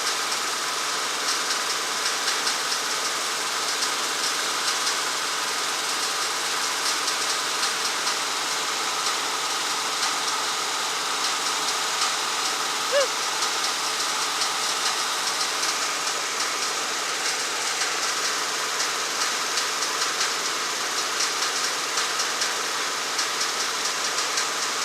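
A motor running steadily at one constant speed, with a brief high squeak about halfway through.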